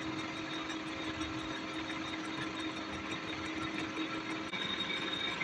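A workshop machine running steadily with a constant hum. About four and a half seconds in, the hum drops out and the sound turns rougher, with higher whining tones.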